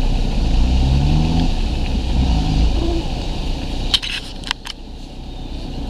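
Car engine running low and steady, heard from inside the cabin. A few sharp clicks come about four seconds in, and it is quieter after them.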